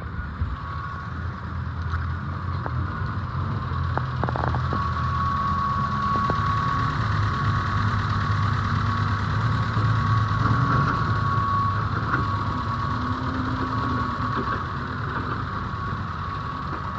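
2013 Chevrolet Cruze engine idling steadily, with a thin, steady high whine over the low engine note and a few light clicks about four to six seconds in.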